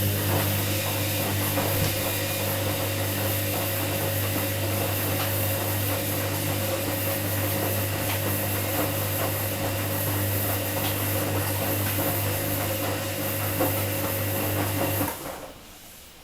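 Washing machine running with a steady electric motor hum and a hissing rush over it; it cuts off suddenly about fifteen seconds in.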